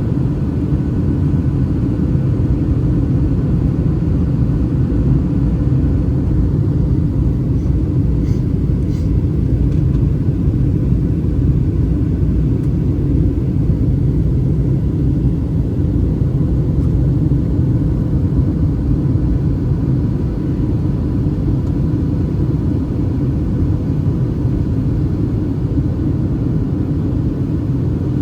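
Boeing 737-800 cabin noise in flight: a steady low rumble of its CFM56 engines and airflow, heard inside the economy cabin over the wing, with a faint steady hum on top.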